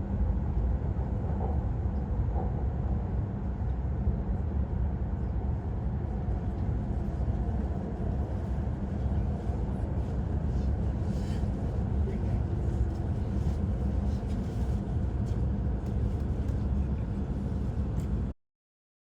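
Shinkansen running noise heard inside the passenger cabin: a steady low rumble that cuts off suddenly near the end.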